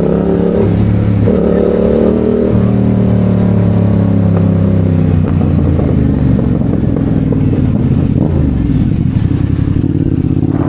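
Motorcycle engine running, its pitch shifting up and down in the first few seconds, then settling lower and steadier about halfway through.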